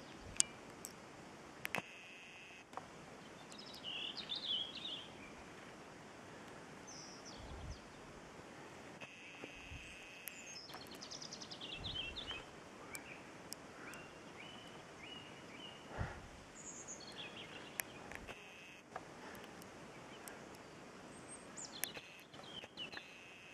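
Small birds calling and chirping on and off over faint open-field ambience, with a few sharp clicks and several brief low thumps.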